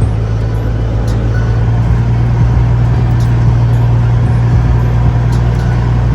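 Flatbed truck's engine running steadily with a loud, low drone.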